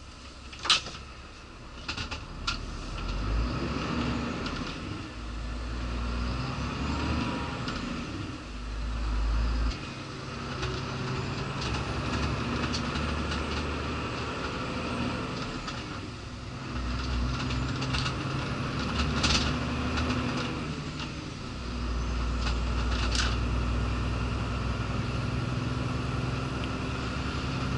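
Scania articulated lorry's diesel engine running, heard from inside the cab, its low rumble rising and falling several times with changing load. A few sharp clicks sound about a second in, twice more shortly after, and once more near the end.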